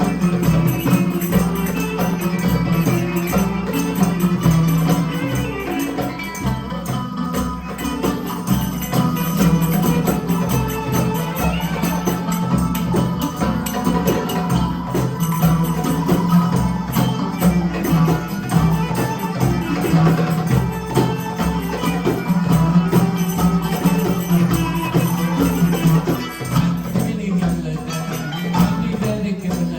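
Live band playing folk-style music, with a steady percussive beat and a held low note underneath.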